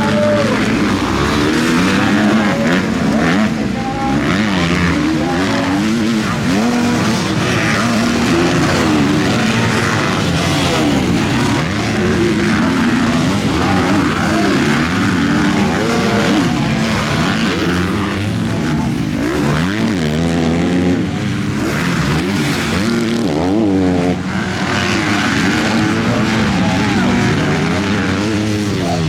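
Several MX2-class motocross motorcycles racing at once. Their engines rev up and down continuously, overlapping one another.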